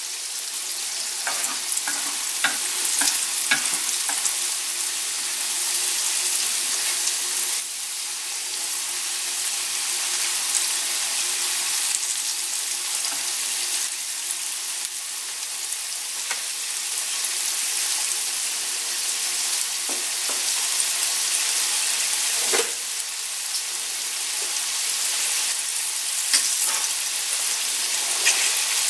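Sweet corn kernels coated in wheat flour and crispy-fry flour deep-frying in hot oil in a nonstick pan, a steady sizzle. A few light clicks come from a metal mesh skimmer stirring and scooping the kernels.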